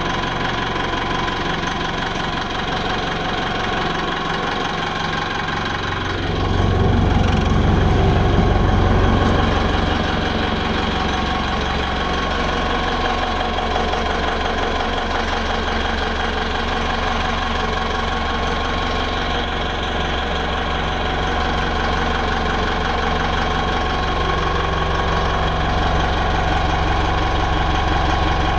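Yanmar DA28 marine diesel engine running steadily at idle. It grows louder and deeper for a few seconds about six seconds in, then settles back to an even idle.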